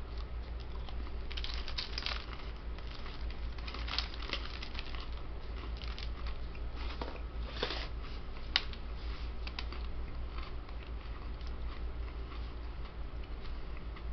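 Close-up chewing of an Oreo Firework sandwich cookie, which has popping candy in its filling, and the plastic cookie package crinkling as it is handled around the middle. These come as scattered crackles and a few sharp clicks over a steady low hum.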